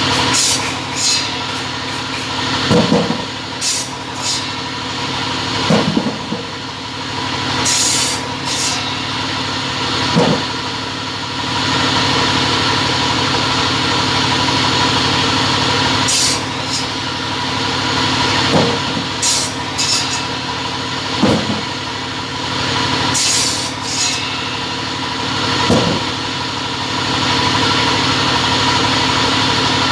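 Double-head cutting machine running with a steady hum. Short high hissing sounds and low surges recur every few seconds as it works.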